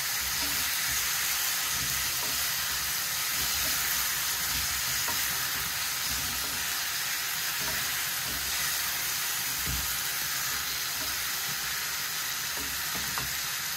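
Potatoes, capsicum and onion sizzling steadily as they fry in oil in a two-handled aluminium pan, stirred with a wooden spoon and a ladle that scrape and knock against the pan now and then.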